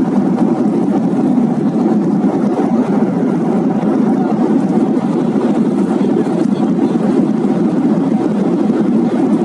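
Steady cabin noise of an airliner in flight: the jet engines and the airflow around the fuselage make an even, low rumble heard from inside the passenger cabin.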